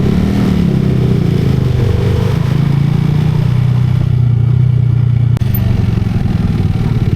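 Motorcycle engine running under way at a fairly steady pitch, with a brief drop in sound about five seconds in.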